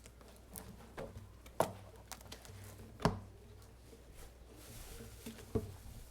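A few sharp knocks and taps with soft rustling in a small room, over a low steady hum: people moving about and handling things as a class ends.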